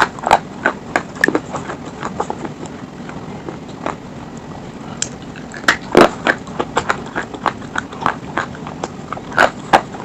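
Close crunching and chewing of slate stone: irregular sharp cracking bites and crackles, the loudest about six seconds in, with another cluster near the end.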